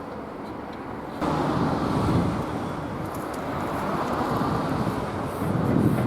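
Mitsubishi Meiki G5L-3A air-cooled kerosene engine running steadily, getting louder about a second in.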